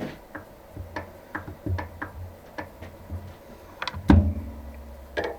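Irregular light metallic clicks and taps of workshop tools and parts being handled, then one loud metal clunk about four seconds in with a brief low ring after it.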